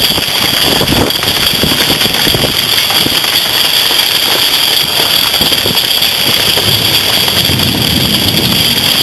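Thunderstorm gusts buffeting the microphone while wind-driven hail and rain pelt down, a steady loud rush with constant small hits.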